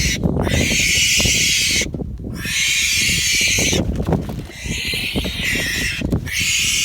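Juvenile barn owl giving long, raspy hissing screeches, about four in a row with short breaks, in protest at being handled.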